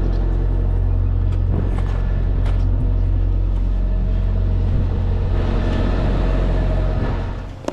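Diesel engine idling with a steady low rumble. Near the end the rumble drops off suddenly, with a single sharp click.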